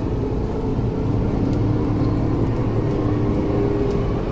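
MTR Tuen Ma Line electric train running past the platform behind the glass platform screen doors without stopping: a steady rumble with a steady motor hum.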